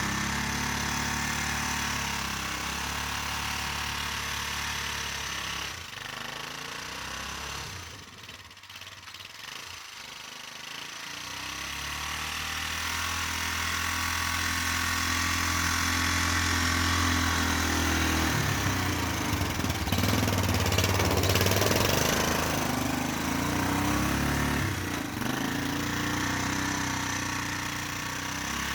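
ATV engine running during snow plowing. It drops away for a few seconds about a quarter of the way in, then comes back and is loudest about two-thirds of the way through.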